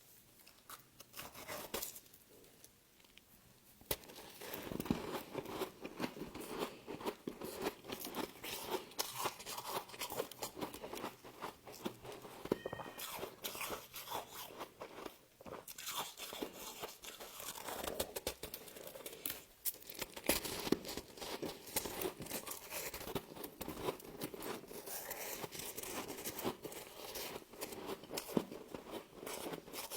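Close-up crunching and chewing of frost, dense crackling bites. It starts sparse, then runs continuously from about four seconds in.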